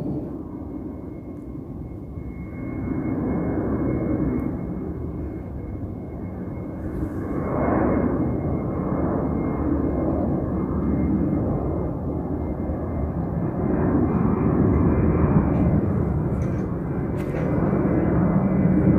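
Airliner flying past: a steady engine rumble with a thin high whine, swelling and easing in waves and loudest near the end.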